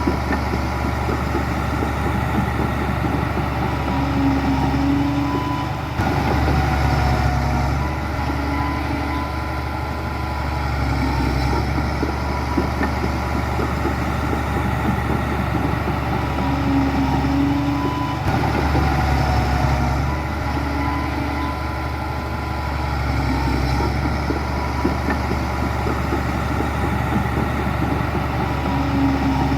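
Diesel engines of heavy earthmoving machinery, bulldozers and dump trucks, running steadily as a low rumble, with short pitched tones recurring every few seconds.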